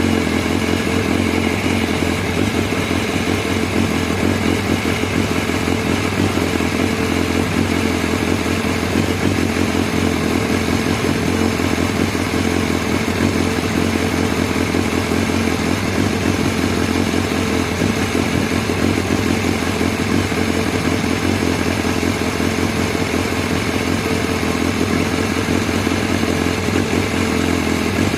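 BMW S1000R's inline-four engine idling steadily with no revs, at an idle the owner calls rough.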